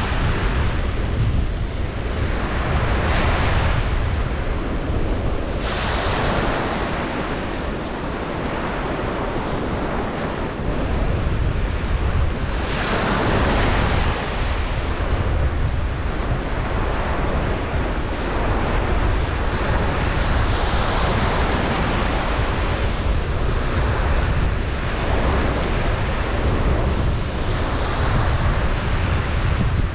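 Ocean waves breaking and washing on a beach, with surges of surf every several seconds over a constant low rumble of wind buffeting the microphone.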